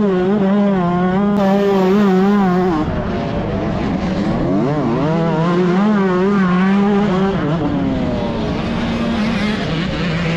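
125cc two-stroke motocross bike engine at race pace, its note rising and falling again and again as the throttle is worked and gears change. It drops to a lower, steadier tone near the end.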